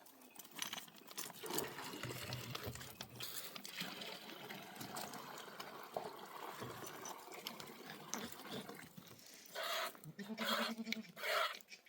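Livestock bleating near the end, over faint clicks and rustling.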